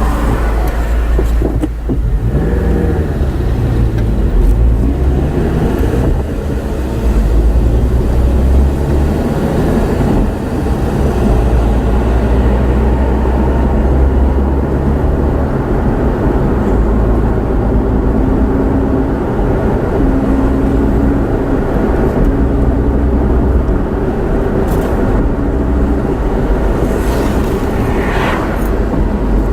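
Car engine and road rumble of a moving car, with the engine note rising a couple of seconds in and then running steadily.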